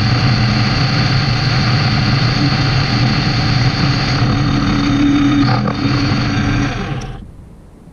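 Metal lathe running steadily, then switched off and spinning down about seven seconds in.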